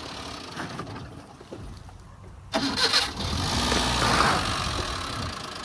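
A car engine, likely the Maruti 800's small three-cylinder, starts up about halfway through with a sudden burst of sound, then keeps running steadily.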